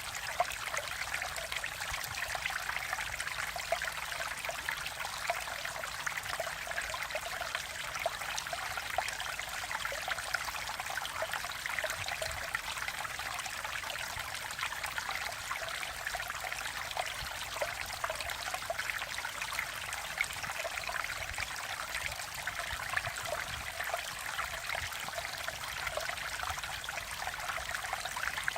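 Mountain stream water flowing over rocks, a steady rushing and burbling with constant small splashes.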